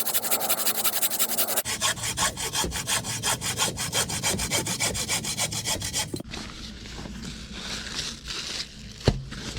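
Folding hand saw cutting through dry, checked deadwood in rapid, even strokes. About six seconds in, the strokes give way to a softer, uneven rasping, and a sharp knock sounds shortly before the end.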